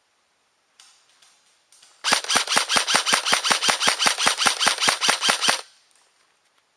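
Airsoft gun firing a rapid string of about twenty shots, roughly six a second, then stopping suddenly.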